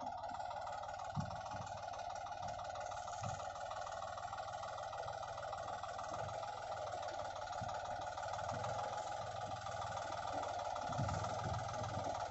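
Toy tractor running: a steady mechanical hum with a fast fine rattle, and a few soft low thumps.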